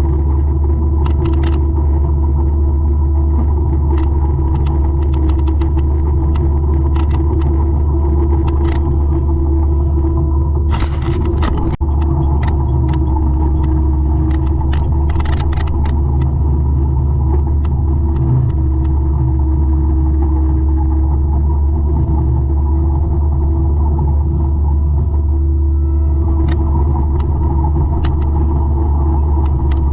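200-horsepower forestry mulcher running steadily: a loud, deep engine drone with a steady whine over it, broken by scattered sharp clicks and cracks, thickest about eleven seconds in.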